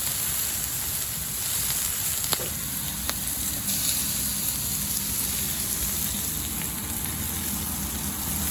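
Food sizzling on an iron griddle over a wood fire: a steady frying hiss with a few sharp crackles.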